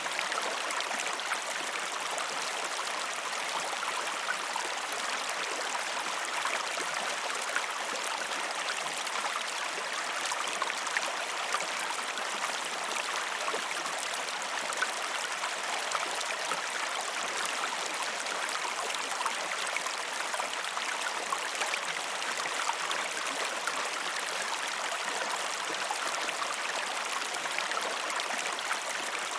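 Flowing river water: a steady, even rush with fine splashing and bubbling throughout.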